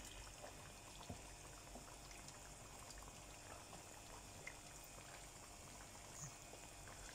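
Faint bubbling of potato sticks deep-frying in hot oil, with scattered small crackles.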